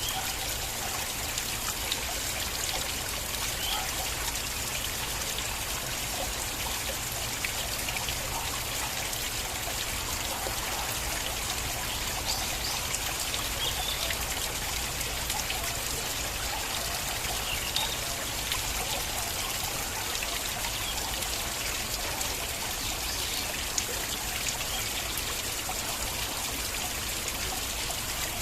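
Stream water flowing and trickling in a steady, even rush, with small splashes scattered through it.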